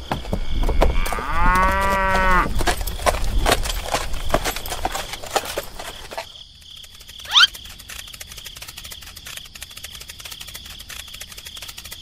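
A cow mooing once, about a second in: a single call of about a second and a half that rises and falls in pitch, over a steady high insect drone. About seven seconds in, a brief sharp chirp rising in pitch.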